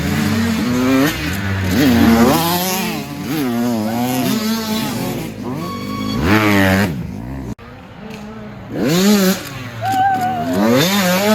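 Several dirt bike engines revving up and down over and over as the bikes race the track, their pitch rising and falling through the gears. The sound breaks off abruptly about seven and a half seconds in, and then the revving resumes.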